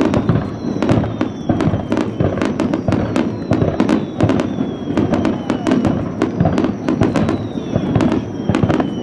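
A dense barrage of aerial fireworks: a rapid, continuous string of sharp bangs and crackles, several a second, over a rumbling low end. A few thin whistles fall slowly in pitch.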